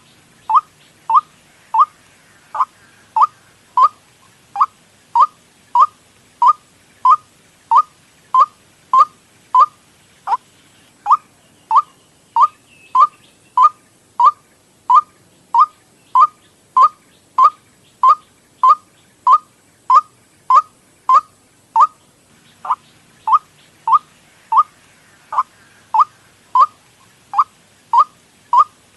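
White-breasted waterhen (ruak-ruak) lure call: one short note near 1 kHz repeated at an even pace, about three notes every two seconds, with a few brief pauses.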